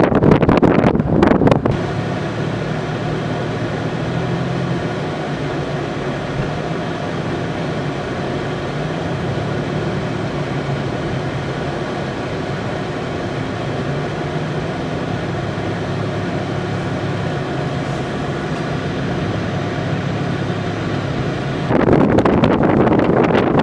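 An engine running steadily, with a low, even hum, for about twenty seconds. Wind buffets the microphone just before it and again near the end.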